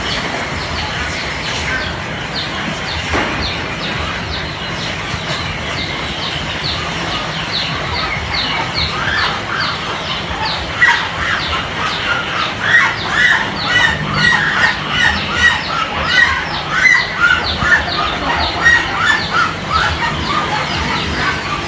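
Birds calling: a chorus of short, downward-slurred peeps, several a second, that grows denser and louder from about the middle, over a steady hiss.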